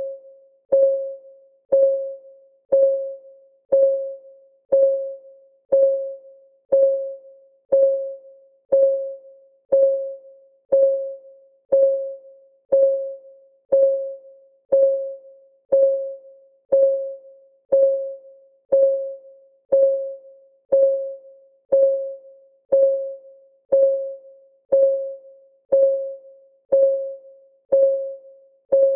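Clock ticking sound of a countdown timer: a short, pitched tick once a second that rings briefly, with a fainter click between ticks.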